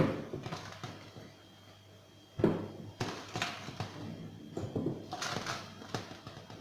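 Irregular light knocks and handling clatter as tomatoes are set into a fridge compartment, with the sharpest knock about two and a half seconds in.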